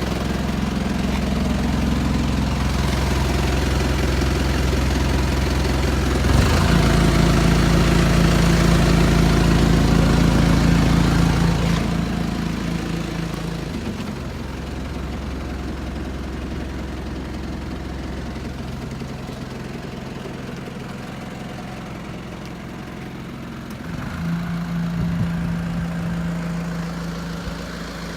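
Mitsubishi Canter truck engine idling steadily. The sound gets louder for a few seconds around a quarter of the way in, settles back, and swells briefly again near the end.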